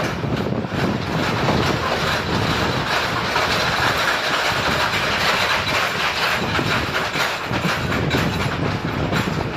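Passenger train running at speed, wheels clicking over the rail joints under a steady rushing noise.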